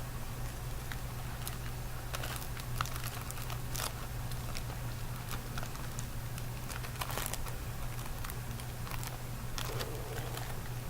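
Close-miked ASMR eating of candy: scattered small clicks and crinkles over a steady low hum.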